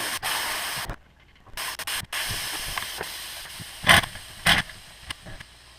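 Compressed air hissing out of a Craftsman air compressor's tank as it is let down, in two blasts: the first cuts off about a second in, the second fades away over a couple of seconds. Two sharp knocks follow near the end.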